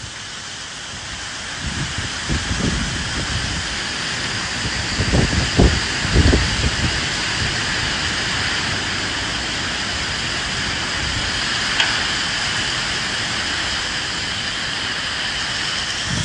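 Steady rain falling in a continuous hiss, with gusts of wind that swell into low rumbles about two seconds in and again about five to six seconds in.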